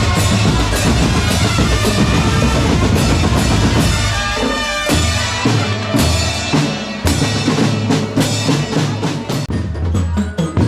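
Marching drum corps playing: bass drums and snare drums in a driving beat with rolls. The low drums drop out briefly about four seconds in, then come back in.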